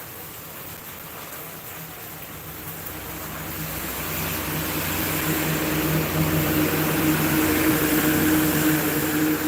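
Tractor engine running with a steady hum, growing steadily louder over several seconds as it comes closer, over a constant hiss.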